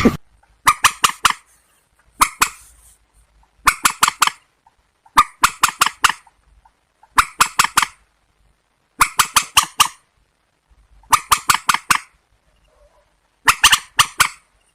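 Recorded calls of rail-family marsh birds, the swamphen and waterhen calls used as a calling track: short bursts of four to eight rapid, harsh notes, repeated about every one and a half to two seconds.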